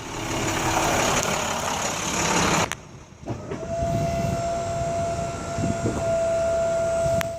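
Truck lift gate's electric hydraulic pump motor: after a rushing noise that cuts off suddenly, the motor starts about three seconds in and runs with a steady whine over a low rumble, with a sharp click near the end.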